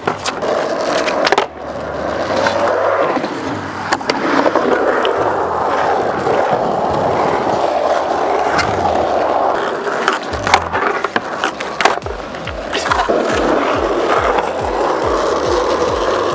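Skateboard wheels rolling, with sharp clacks from pops and landings, over background music whose steady bass beat comes in about twelve seconds in.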